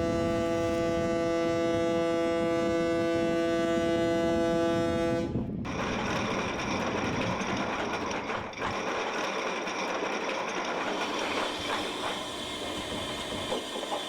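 Ship's horn sounding one long, steady blast of about five seconds that cuts off sharply, followed by steady noise with no clear tone.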